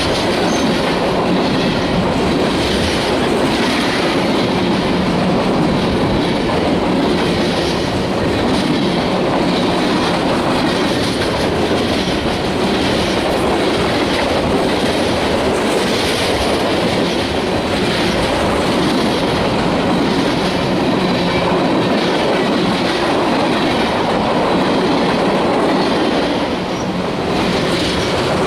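Freight train cars rolling past, steel wheels clacking over the rail joints in a steady, repeating rhythm.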